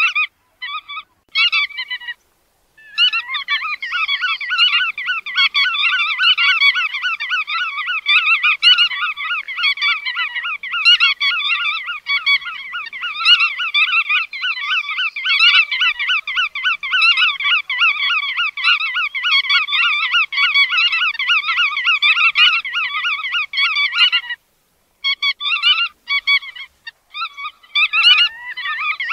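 Bar-tailed godwits calling in a dense, rapid chatter of many overlapping calls. There are a few short breaks in the first couple of seconds and a brief pause near the end.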